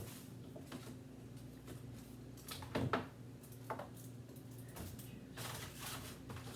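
Food containers and produce being handled and set down while a refrigerator is cleared out: a few short knocks and clatters, the loudest about halfway through and a rustly cluster near the end, over a steady low hum.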